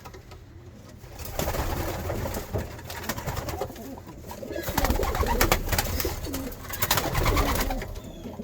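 Racing pigeons cooing in a loft, with rustling and small knocks, starting about a second in.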